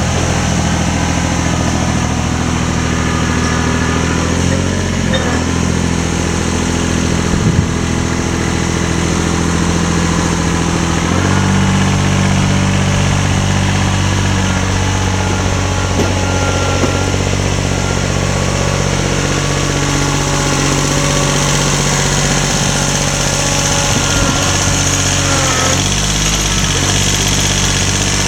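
An engine running steadily, its speed shifting up about eleven seconds in and changing again near the end, with a single sharp knock about seven and a half seconds in.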